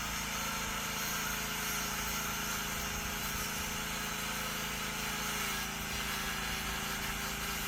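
An engine running steadily at a constant speed, with a faint held tone that dips slightly about five and a half seconds in.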